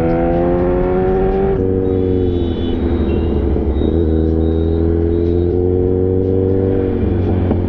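Kawasaki Ninja 1000's inline-four engine pulling hard, its pitch climbing, then dropping suddenly about a second and a half in at an upshift and holding fairly steady with small rises and dips.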